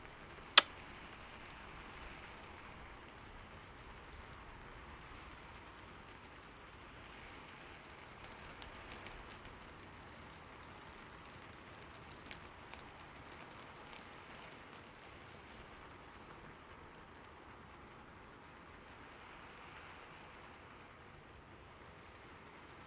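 Steady rain ambience, a faint even hiss of falling rain. A single sharp click comes about half a second in.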